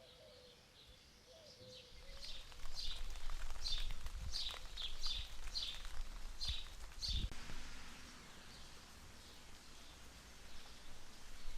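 A bird calling: a quick run of about ten short, high chirps, roughly two a second, that stops after a few seconds. Under it are a low rumble and a couple of dull thumps.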